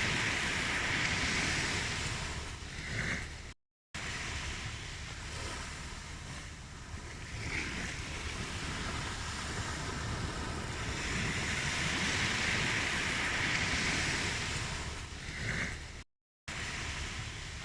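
Ocean waves washing on a shore in slow swells that build and recede. Twice the sound cuts out completely for a split second.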